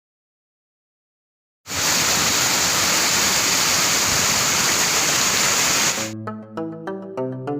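Silence, then the steady rush of a waterfall for about four seconds, cut off abruptly by music with a plucked, stepping melody.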